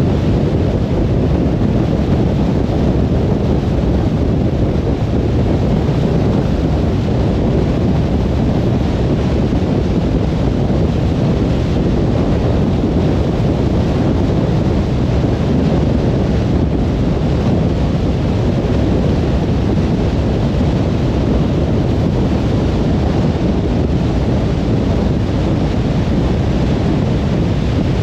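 Steady road noise of a car driving at motorway speed: tyres on the road surface and wind, a low, even rumble with no changes.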